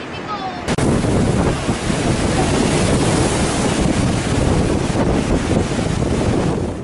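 Heavy storm surf crashing, with strong wind buffeting the microphone. It cuts in abruptly about a second in and stays loud and dense.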